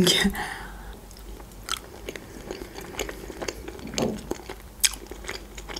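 A person chewing a boiled pelmeni dumpling close to the microphone: a string of small, irregular mouth clicks and smacks.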